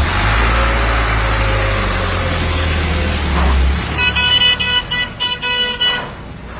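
A food truck's engine running with a deep low rumble, then a vehicle horn sounding in several short blasts about four seconds in.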